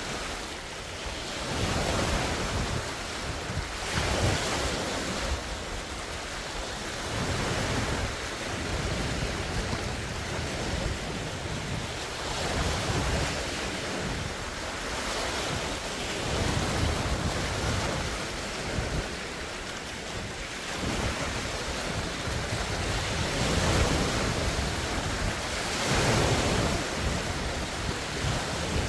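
Large wind-driven waves on a lake washing and breaking against the shore, swelling and easing every couple of seconds. Strong wind buffets the phone's microphone with a low rumble.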